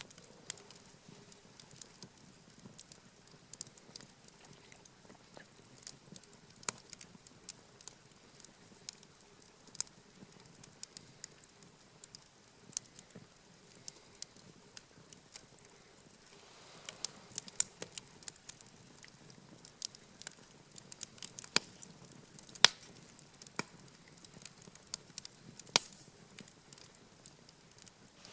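Wood campfire crackling, with irregular sharp snaps and a few louder pops in the second half.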